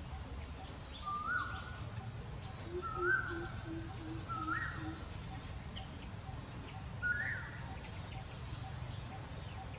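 Birds calling outdoors: four short rising whistled calls spaced a second or two apart, and a brief series of about seven low hoots partway through, over a steady low background hum.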